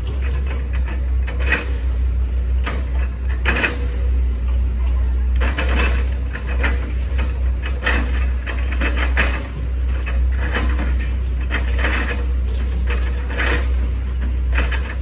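Hitachi ZX110 MF excavator with its engine running in a steady low drone, overlaid by irregular crunching, cracking strikes about once a second as the bucket chops into an oil palm trunk.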